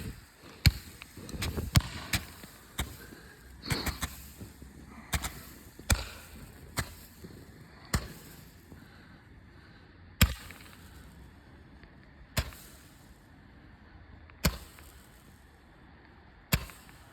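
Roman candles firing: a string of sharp pops as each shot is launched, several close together in the first four seconds, then one about every two seconds.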